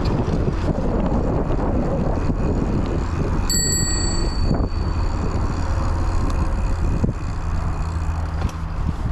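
A bicycle bell rings once, a bright, sharply struck ring about three and a half seconds in that fades within about a second, over the steady rumble of wind on the chest-mounted microphone and tyres on the trail.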